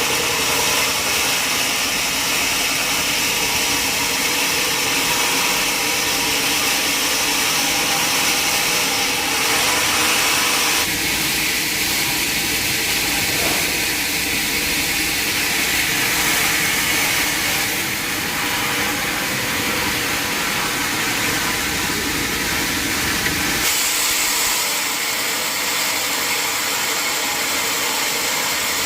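Sawmill saw running and sawing timber, a loud, steady machine noise with a whine in it; the sound changes abruptly about eleven seconds in and again near the end.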